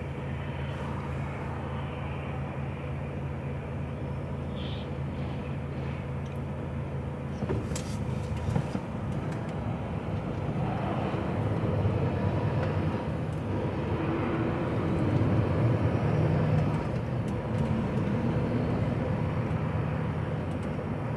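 Diesel engine of an HGV lorry heard from inside the cab, idling steadily at first. A few clicks come about seven seconds in, and then the engine and road noise grow louder as the lorry gets moving.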